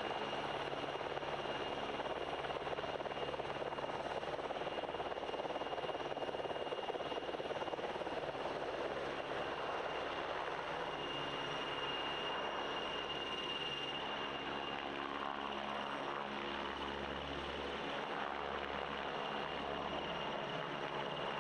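PZL W-3A Sokół twin-turbine helicopter in flight: continuous rotor and engine noise with a steady high turbine whine, a lower engine drone growing stronger in the second half.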